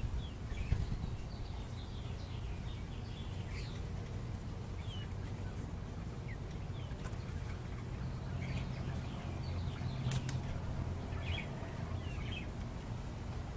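Short, high bird chirps scattered through, heard over a steady low rumble, with a couple of sharp clicks about ten seconds in.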